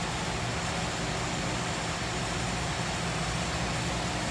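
Steady low mechanical hum with an even hiss over it, unchanging throughout, like an engine idling or a running fan.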